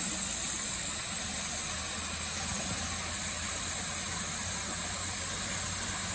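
A small engine running steadily at an even pitch, with a constant high-pitched whine over it.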